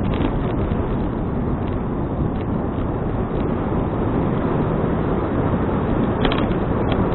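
Steady wind noise rushing over an action camera's microphone while cycling, mixed with road rumble. There are a few faint clicks, the clearest about six seconds in.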